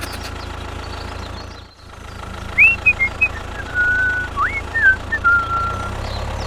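A steady low engine-like drone, with a run of short whistled notes and pitch slides about midway through.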